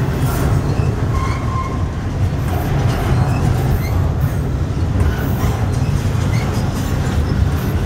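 Double-stack container train's well cars rolling past: a steady, loud rumble of steel wheels on rail, with short high wheel squeals now and then.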